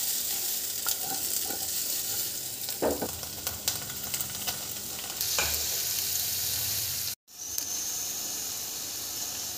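Sliced onions and green bell pepper sizzling in oil in a non-stick frying pan on low heat, stirred with a few light knocks against the pan. The sizzle cuts out for a moment about seven seconds in, then carries on.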